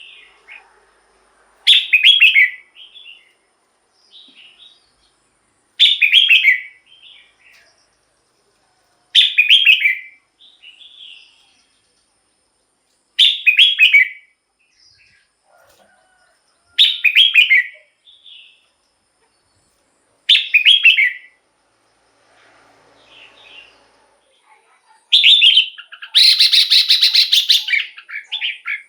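Red-whiskered bulbul singing short whistled phrases about every three to four seconds. Near the end comes a longer, louder phrase of rapid repeated notes.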